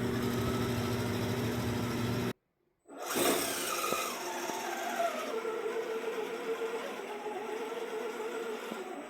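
A steady electrical hum, then a sudden cut. After the cut, an RC rock crawler's 17-turn brushed Redcat motor and gearbox whine as it drives: the pitch drops over the first second or two, then holds steady.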